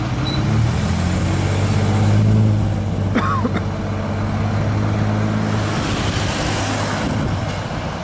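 A large vehicle's engine running steadily with a low hum, swelling about two seconds in and easing off after about six seconds. A brief falling squeal about three seconds in.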